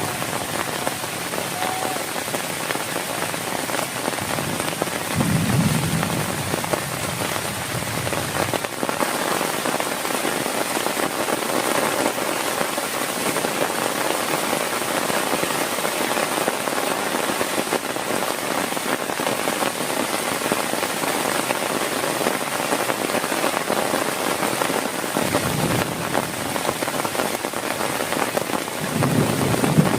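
Heavy rain falling steadily, with a brief low rumble about five seconds in and again near the end.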